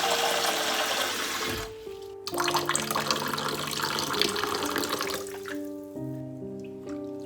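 Water running in two spells: it breaks off about one and a half seconds in, starts again, and dies away after about five seconds. Soft background music with sustained notes plays throughout.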